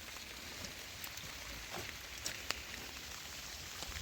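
Steady rain falling, with a few sharp drip-like ticks about halfway through.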